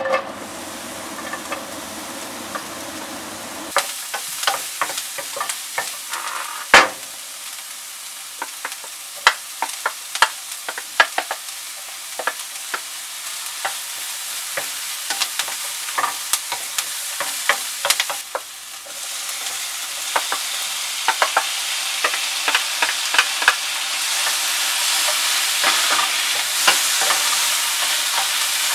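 Chopped onion, garlic and tomato sizzling in hot oil in a frying pan, stirred with a wooden spatula that clacks and scrapes against the pan in quick irregular knocks. The sizzle picks up about four seconds in and grows louder in the second half.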